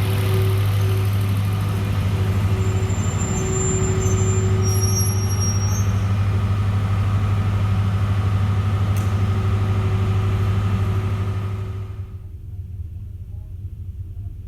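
Diesel locomotive engine running steadily at idle, a deep even drone. About twelve seconds in, it drops in level and turns muffled.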